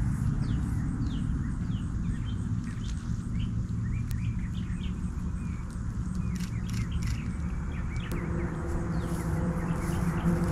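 Small birds chirping, many short quick falling notes, over a low steady rumble of outdoor background noise. A low steady hum joins about eight seconds in.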